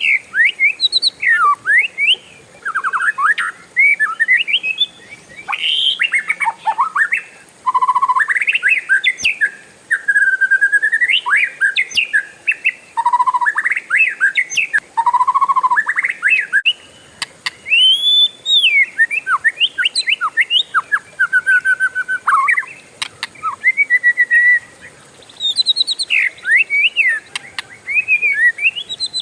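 Oriental magpie-robin (kacer) singing a long, varied rolling song: clear whistles, rapid rattling trills and rising and falling slurred notes, strung together almost without pause.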